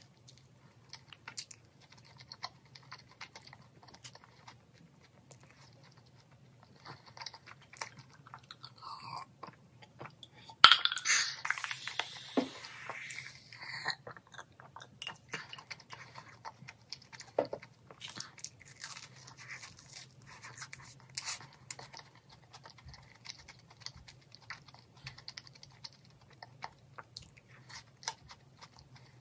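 Close-up chewing and crunching of fried chicken, in irregular soft crunches. About eleven seconds in comes a louder stretch of drinking water from a glass, with swallowing.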